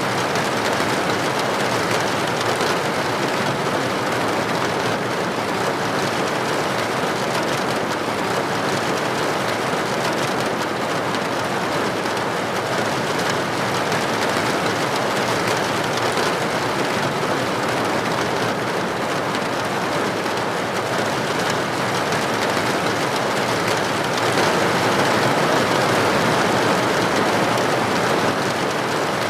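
Steady rain falling on a window or roof, an even dense patter, a little heavier near the end.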